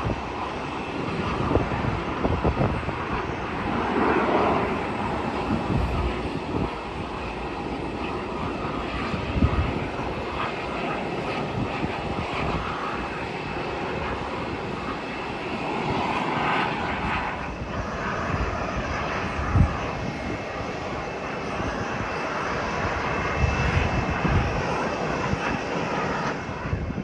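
Airliner jet engines running with a steady roar that swells twice, with wind buffeting the phone microphone in low thumps.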